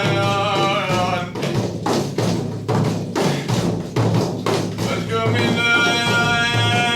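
Devotional praise singing (madh) with drum accompaniment. A sung line ends about a second in, and drum strokes beat alone for a few seconds. A long held sung note enters near the end.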